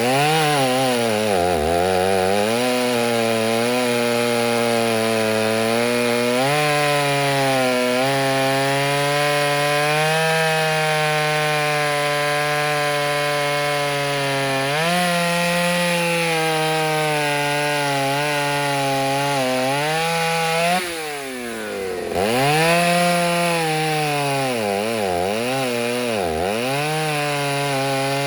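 Ported Stihl 08S two-stroke chainsaw with a stock muffler, running under load in a cut. Its pitch sags as it labours and picks back up several times, with a brief drop in level about three quarters of the way through.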